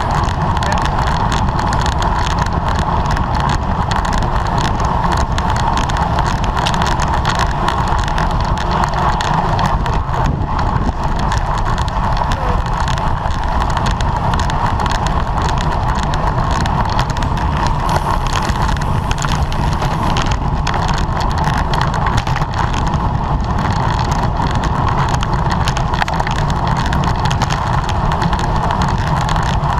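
Steady wind rush and road noise on the microphone of a camera carried on a racing bicycle at speed, with a constant hum and no let-up.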